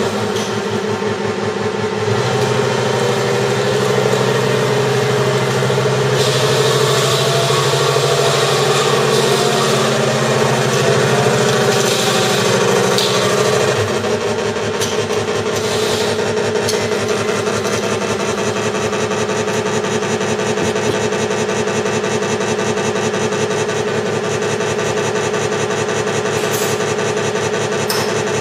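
Engine sound generator in a 1/6-scale Tiger tank model, playing a simulated tank engine through its speaker and running steadily. A deeper note joins about two seconds in and drops away again about halfway through.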